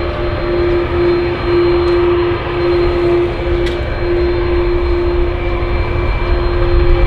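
Airliner jet engines running steadily at close range: a deep, even rumble with a constant hum over it. A single faint click comes about halfway through.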